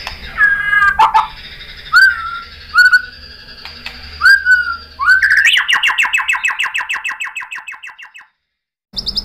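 White-rumped shama singing: a few short upswept whistles, then a fast run of repeated rattling notes for about three seconds, cut off by a brief silence before the song resumes.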